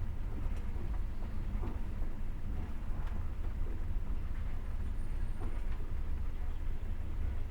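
Passenger train running, heard from inside the carriage: a steady low rumble with occasional faint clicks and knocks from the wheels and running gear.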